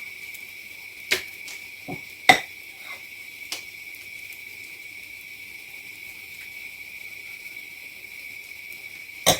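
A few sharp kitchen knocks and clinks of a utensil against dishes and a board while pancakes are rolled, over a steady thin high-pitched whine.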